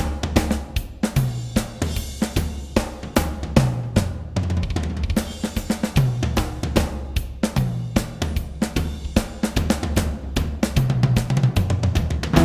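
Drum kit playing a busy, fast groove: bass drum, snare, hi-hat and cymbal hits in quick succession, over a low bass line whose notes change about every second.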